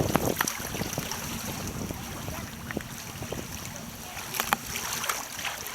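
Kayak paddling on river water: scattered paddle splashes and moving water, with wind buffeting the microphone and a loud gust-like rumble at the very start.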